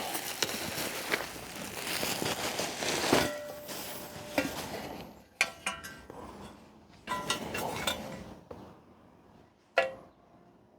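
Thin pressed-steel car repair panels being handled: rustling and scraping at first, then a series of light metallic clinks, each with a brief ring, growing sparser and quieter toward the end.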